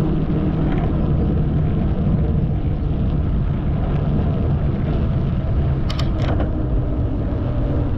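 Steady rumble and hiss of a bicycle ride: tyres rolling on the path and wind on the microphone. Two brief, sharp high-pitched sounds come about six seconds in.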